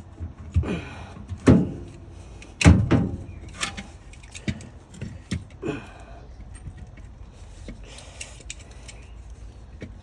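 Hand-handling noise from parts and tools during work on a motor: a series of sharp knocks and clatters with scraping, about six loud ones in the first six seconds, then only faint clicks and rustling.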